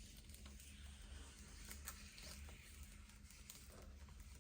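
Faint crackling and small ticks of protective plastic film being peeled off a clear RC car body, over a low steady hum.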